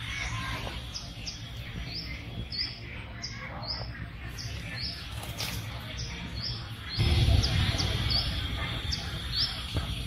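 A small bird chirping over and over in short high notes, about three a second, over a low rumble that grows louder about seven seconds in.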